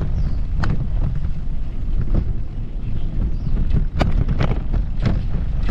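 Wind buffeting the microphone: a heavy, steady low rumble, broken by a few irregular sharp clicks.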